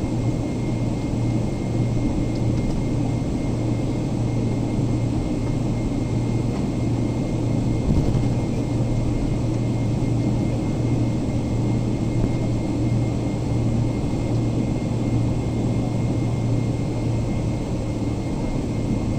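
Steady cabin noise of a Boeing 777-300ER on the ground after landing: an even rushing hum with a strong low drone and a faint steady high tone, and a light knock about eight seconds in.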